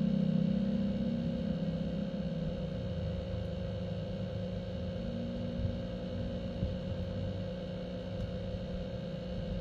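Steady low hum with a faint steady tone above it, a little louder in the first second or so.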